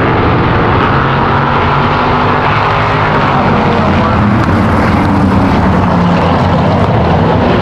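A field of V8 stock cars and trucks running together on a short oval, many engines overlapping in one steady, loud mass, with pitches rising and falling as cars pass.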